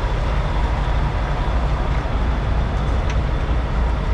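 Diesel truck engine idling, a steady low rumble with a few faint ticks over it.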